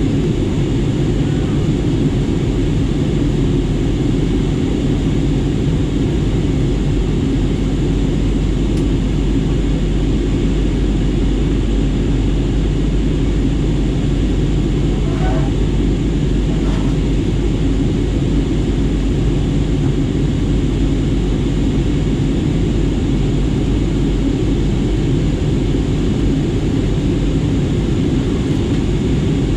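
Airliner cabin noise in flight: a steady low rumble of engines and rushing air that does not change.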